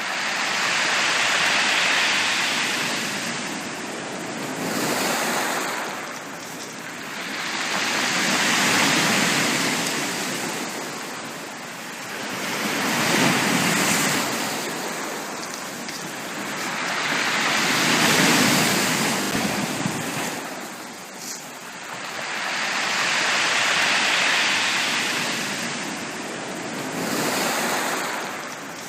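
Sea waves washing onto a beach, the surf swelling and falling away in a slow, even rhythm, about one surge every four to five seconds.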